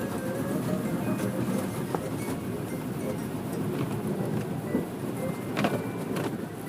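Steady low rumble of a car, heard from inside, with a few faint clicks and faint music.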